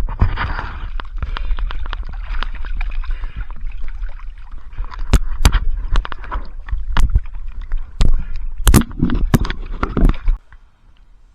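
Small boat on the water, with wind rumbling on the microphone and many irregular knocks and splashes, as of oars working a dinghy. The sound stops abruptly about ten seconds in.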